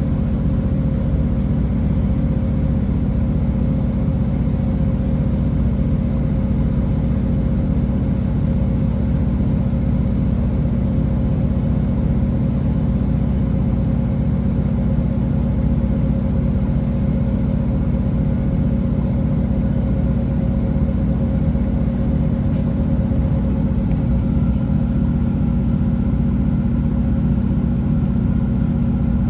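Class 165 diesel multiple unit heard from inside the passenger saloon: the underfloor diesel engine and the running gear give a steady drone and rumble, with a faint higher whine joining near the end.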